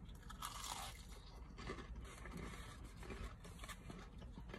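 Faint crunching and chewing of a fried onion ring, in a few short crackles.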